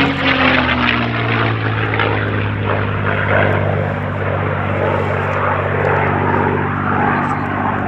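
P-51 Mustang's V-12 piston engine and propeller running at power in flight, a steady low drone whose pitch falls in the first half second and then holds.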